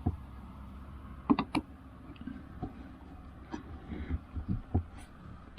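Scattered, irregular knocks and clicks from hand work tightening screws on a chicken-coop step, with a sharp double knock about a second and a half in.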